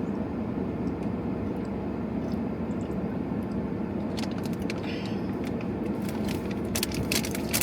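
Steady low hum of a car idling with its air conditioning running. From about four seconds in, a run of crinkles and clicks as drinks and snacks are handled.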